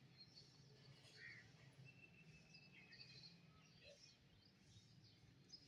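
Faint birdsong: scattered high chirps and short trills, with one thin steady whistle held for about a second and a half, over a low steady hum.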